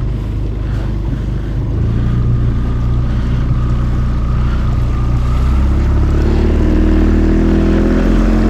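A boat's outboard motor running steadily, with its note building a little after about six seconds.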